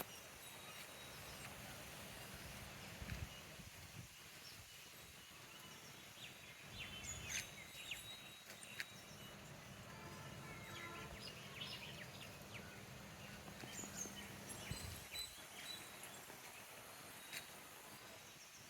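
Faint outdoor ambience: a soft, even background hiss with scattered brief, high chirps and clicks from birds or insects, including a short run of quick repeated notes about halfway through.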